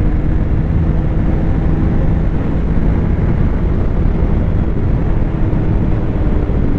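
Snowmobile engine running at a steady cruising pitch while riding, over a dense low rumble of wind and track noise.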